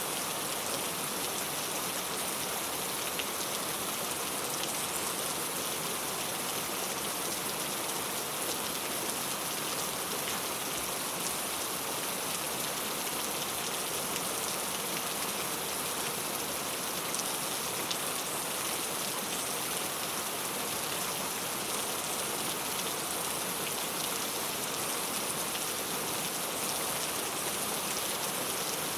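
Steady rain falling on a clay tile roof: an even hiss of rainfall with scattered drops tapping.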